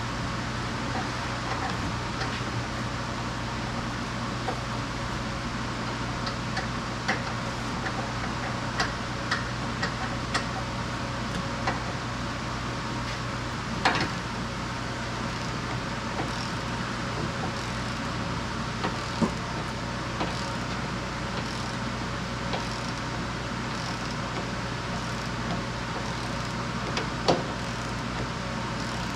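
Steady low hum of a repair shop, with scattered light metallic clicks and knocks from work on the car, a sharper knock about halfway through and another near the end.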